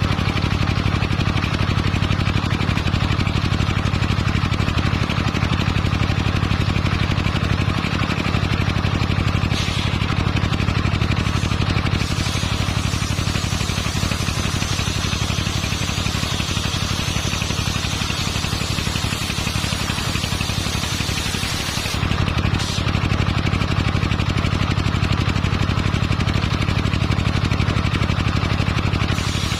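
Circular saw rig running steadily with a constant low hum, the sound shifting briefly about ten seconds in and again about twenty-two seconds in as it works through hard coconut-palm wood.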